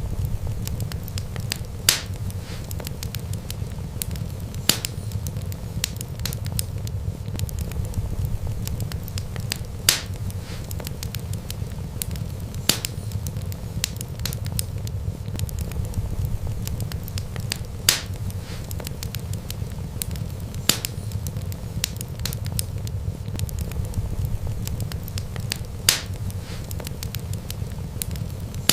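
Wood fire crackling over a steady low rumble, with many small ticks and a sharp loud pop every few seconds.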